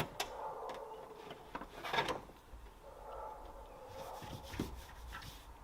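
Faint rubbing and a few light clicks and knocks, like handling noise, with one louder scrape about two seconds in.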